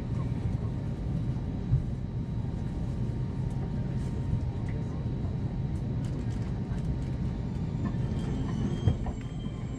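Steady low rumble inside an Airbus A320-200 passenger cabin on the ground after landing, with two brief thumps, one about two seconds in and one near the end.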